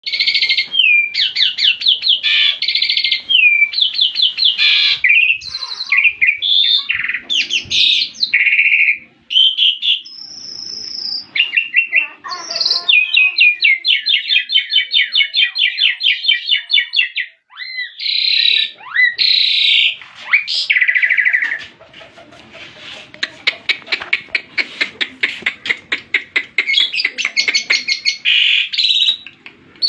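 A songbird in full, vigorous song, pouring out fast high-pitched phrases that change every second or two: rapid rattling trills, whistled sweeps and sharp chirps. Over the last third the trills come in a long run of quick repeated notes.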